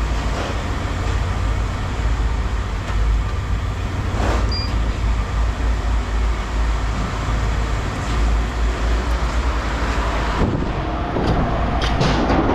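Steady low rumble of an idling vehicle engine, with a few scattered knocks, several of them near the end.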